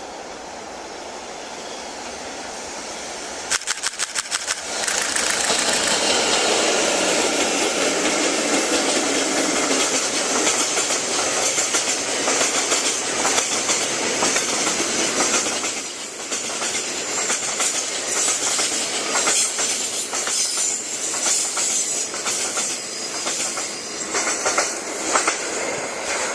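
Freight train hauled by EF64 electric locomotives passing close by: the noise builds, a quick run of sharp clicks comes about three and a half seconds in, then the freight wagons roll past with steady clickety-clack over the rail joints. A brief high wheel squeal comes about midway.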